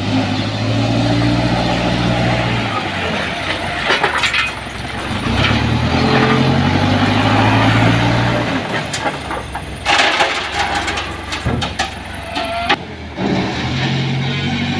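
Heavy diesel engine running and repeatedly revving up and easing off, as when working under load. There are bursts of rattling, clattering impacts about four seconds in and again in the last third.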